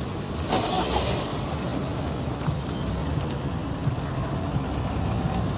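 Road traffic: motor vehicles running along the road, a steady low engine and tyre rumble, with one noisier surge a little after half a second in.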